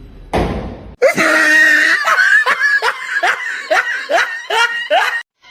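A voice laughing hard in a quick run of about nine short rising 'ha' sounds, two or three a second, after a brief breathy rush, and cutting off just before the end.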